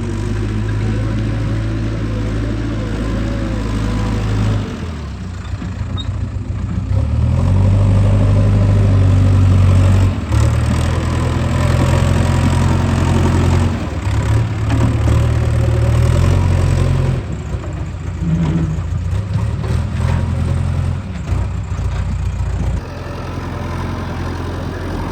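Diesel engine of a JCB backhoe loader at work, its note swelling and easing in spells of a few seconds as the hydraulics take load while digging and loading mud.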